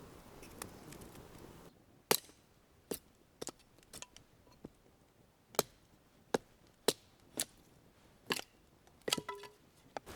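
A blade chopping: about a dozen sharp, separate strikes at an uneven pace, with a quick cluster of strikes near the end. Before them a steady outdoor hiss cuts off abruptly.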